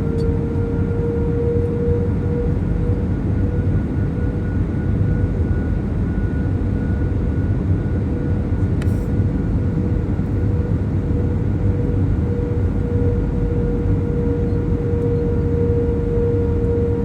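Steady pink noise, a constant even rush weighted toward the low end, with a faint steady tone running underneath.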